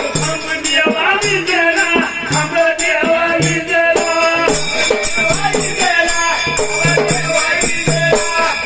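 Dhangari ovi folk music between verses: fast, regular metallic-rattling percussion strokes over a stepping melodic line.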